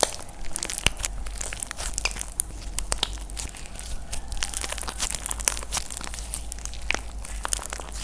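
Dry plaster clay being cracked and crumbled by hand, close-up: a dense, continuous run of sharp crunchy crackles and pops.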